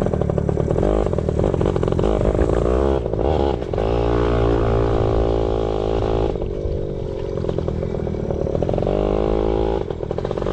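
Yamaha PW80 pit bike's small two-stroke single-cylinder engine running under throttle while being ridden, its revs rising and falling several times.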